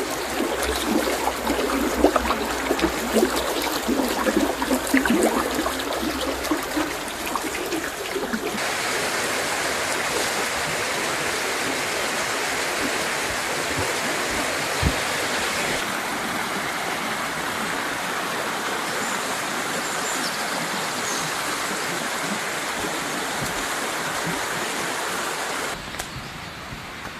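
Mountain river water rushing and splashing over rocks, gurgling at first, then an abrupt change to a steadier, more even rush about eight seconds in, and a sudden drop in loudness near the end.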